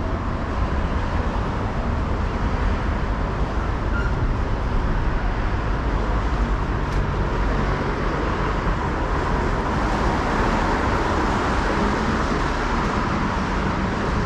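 Steady city street traffic noise: passing cars and other vehicles on a busy boulevard.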